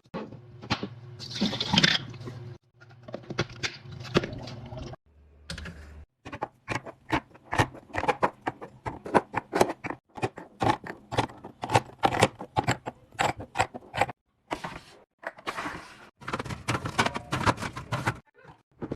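Household containers and packages being handled and set down: a busy run of clicks, knocks, scrapes and rustles over a low steady hum.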